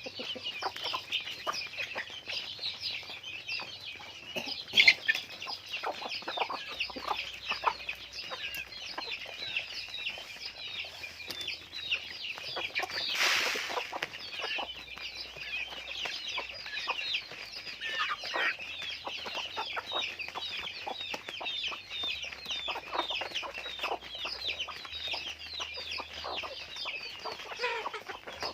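A flock of chickens clucking and calling, with many short overlapping calls running on without a break. A louder single call comes about five seconds in, and a short rustling burst about halfway through.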